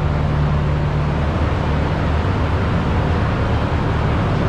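Honda K24-engined Civic race car on a rolling-road dyno, running steadily with a constant low hum and no change in pitch.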